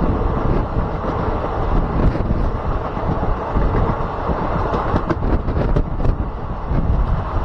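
Passenger train running along the track, heard from on board, with wind buffeting the microphone. A few sharp clicks come between about five and six seconds in.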